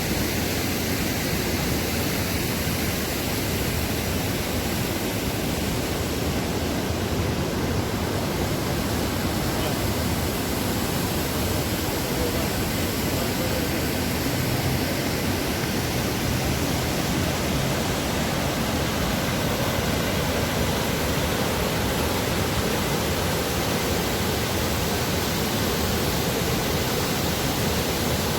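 Man-made waterfall pouring into a canal: a steady, even rush of falling water.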